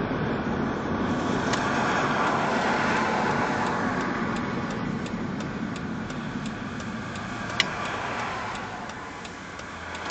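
Road traffic noise swelling as vehicles pass and then slowly fading. From about the middle on, a steady ticking runs at roughly two to three ticks a second, with one sharper click near the end.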